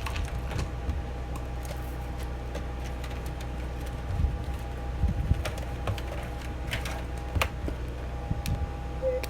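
Steady low machine hum with a faint steady whine above it, and scattered light clicks and taps.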